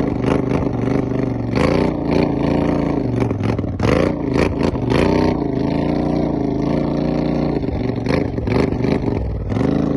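Vehicle engine running under load, its pitch rising and falling as the throttle is worked, with a run of sharp knocks and clatter in the first half.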